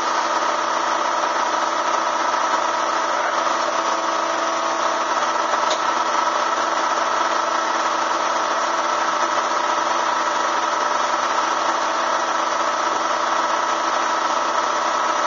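Bee vacuum's motor running steadily: a constant mechanical hum with several steady whining tones.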